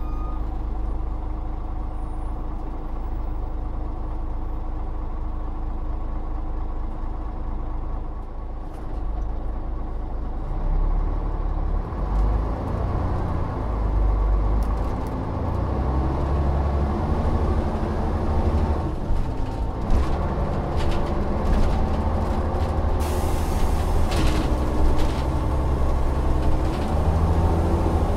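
Volvo Olympian double-decker bus engine running steadily at first, then pulling away and revving up and down through the gears from about ten seconds in. A short hiss of air comes about two-thirds of the way through.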